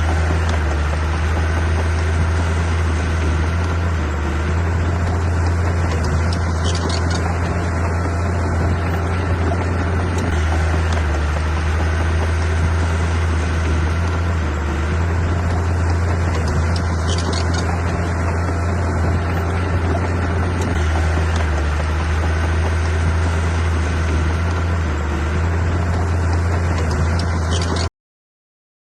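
Heavy construction machine's engine running steadily: a constant low drone with a wash of mechanical noise over it.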